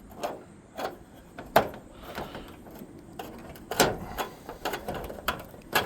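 Irregular sharp clicks and light knocks of gutter screws and spikes being handled and knocked against the gutter, about half a dozen in all, the loudest about a second and a half in and again near four seconds.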